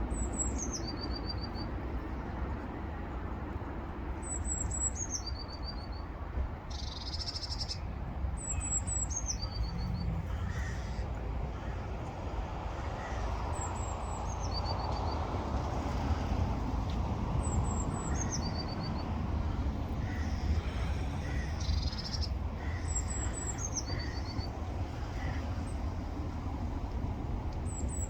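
Eurasian blue tit singing: a few high, thin notes stepping down into a short, lower trill, the phrase repeated about every four to five seconds over a steady low rumble.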